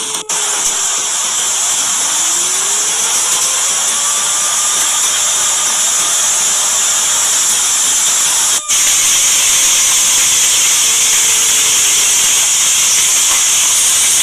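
Loud, steady hissing noise of storm wind and rain on the microphone, cut off for an instant twice. Under it a faint wailing tone slowly rises and falls in pitch.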